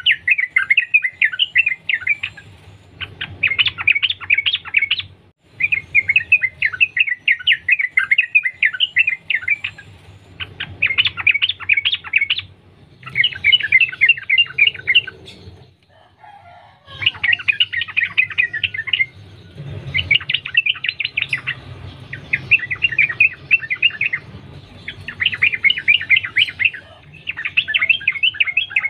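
Yellow-vented bulbul singing in long runs of rapid chattering notes, phrase after phrase with short breaks between. A faint steady low hum lies underneath.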